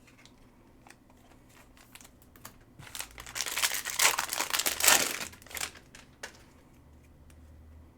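A trading-card pack wrapper being torn open and crinkled: light clicks and rustles, then a burst of crinkling and tearing from about three seconds in that lasts a couple of seconds.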